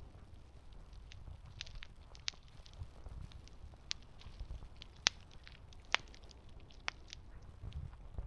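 Campfire burning: wood crackling with sharp, irregular pops, the loudest about five and six seconds in, over a low steady rumble.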